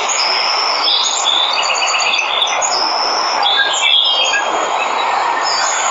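Steady rushing of a waterfall, with birds chirping over it in quick runs of short, high whistled notes.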